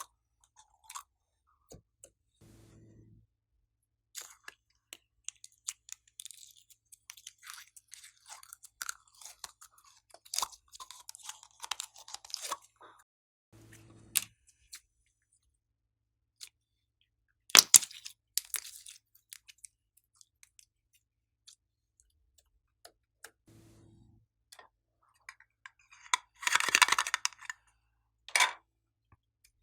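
Glossy slime being squeezed and worked by hand, giving irregular sticky clicks, pops and crackles, with a sharp loud crackle a little past the middle and a longer dense crackling near the end.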